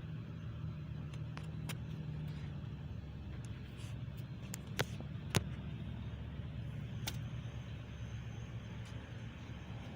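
A few light clicks and taps from hand tools working at the back of an engine block, the two sharpest about five seconds in, over a steady low hum.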